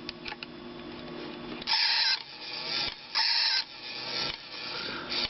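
Polly the Techno Parrot robot toy working its mechanism: a low hum with small clicks, then two short, harsh, rasping bursts about two and three seconds in.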